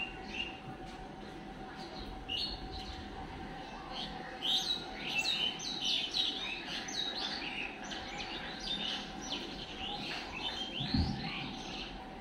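Several birds chirping outdoors: many short, high calls, busiest through the middle, with a low thump about eleven seconds in.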